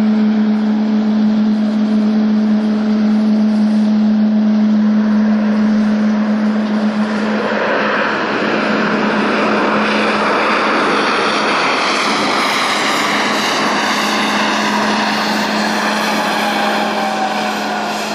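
Boeing 777-300ER's twin GE90-115B jet engines on landing approach, passing close by: a steady hum, then the roar swells from about eight seconds in, and a falling whine as the aircraft moves past near the end.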